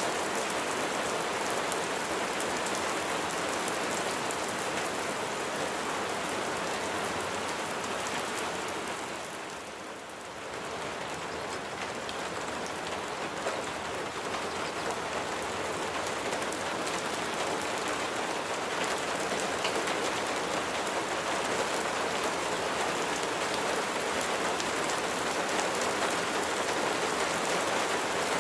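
Steady rain, a dense patter of drops. It softens briefly about a third of the way through, then comes back to full strength.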